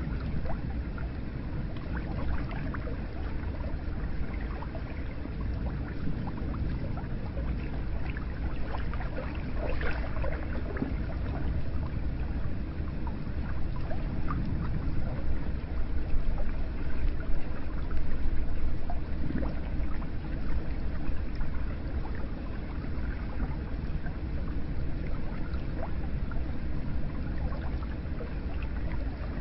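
Hot spring water pouring and trickling steadily, with a constant rush and many small splashes and drips.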